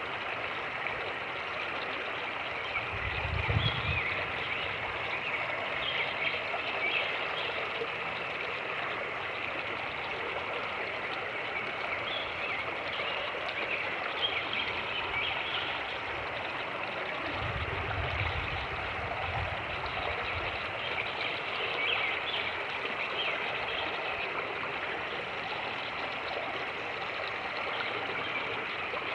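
Fast-moving creek water rushing and splashing steadily over rocks. Twice, a low rumble of wind buffets the microphone.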